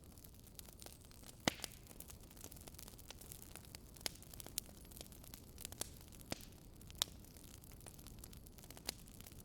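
Campfire burning: a soft steady hiss with irregular sharp pops and crackles of burning wood, a few louder snaps scattered through.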